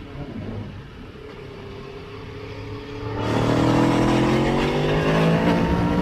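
Motorcycle engine running at a steady note, then about three seconds in the throttle opens hard and the engine gets much louder, its pitch rising as the bike accelerates.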